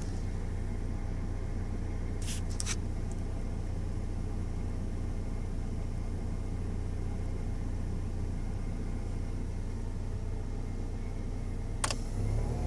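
1999 Chevrolet S10's 2.2L four-cylinder engine idling steadily with a mechanical noise that the owner suspects comes from the timing chain and gears, wondering whether the timing set needs replacing at 86k miles. A couple of sharp clicks sound about two and a half seconds in and again near the end.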